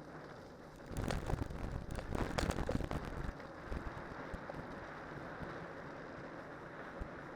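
Cyclocross bike on spiked winter tyres riding downhill: about a second in, the bike rattles and knocks over rough ground for about two seconds, then it settles into a steady rushing noise of wind and rolling tyres.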